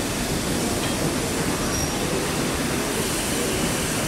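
A train approaching slowly along the track: a steady rumble and hiss with a faint wavering squeal.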